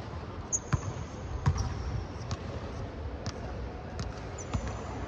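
A volleyball being played on a court: irregular sharp thuds and slaps of ball contacts, about six in a few seconds. Two faint high squeaks come about half a second in and again near the end.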